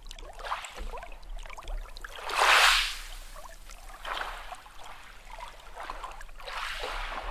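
Small sea waves washing in, one after another, with trickling and fizzing between them; the loudest wave comes about two and a half seconds in.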